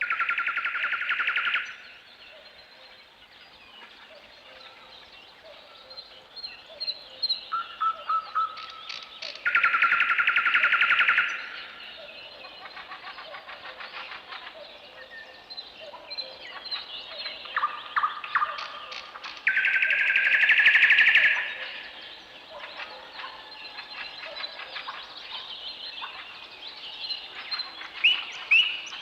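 Birds calling: three loud rapid rattling trills about ten seconds apart, with scattered chirps and short calls from other birds between them.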